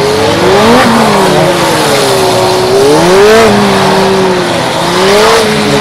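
Honda CBR600RR's inline-four engine revving hard and easing off in turn as the bike flicks through tight cone turns. Its pitch climbs steeply about a second in, again around three seconds in and near the end.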